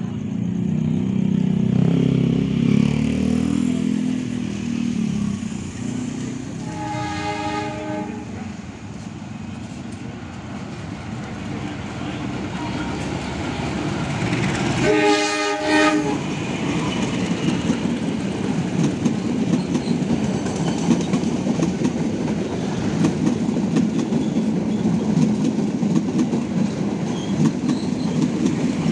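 Diesel locomotive of Indonesian railways (KAI) sounding its horn twice, one blast about seven seconds in and a louder one about fifteen seconds in, after a low engine rumble at the start. The train then passes close with its passenger coaches, wheels clacking rapidly over the rail joints.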